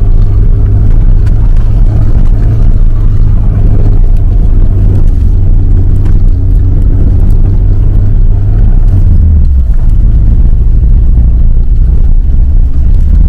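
Engine and road noise inside the cabin of an old Soviet-era sedan driving over a rough dirt track: a loud, steady low drone that shifts in pitch about nine seconds in.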